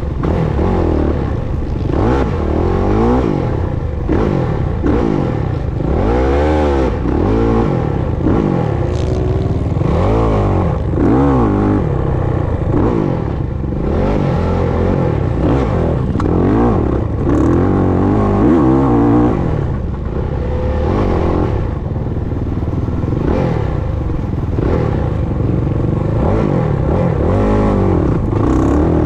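Motocross bike engine revving up and down over and over as it is ridden around a dirt track, climbing in pitch on the throttle and dropping off into the turns.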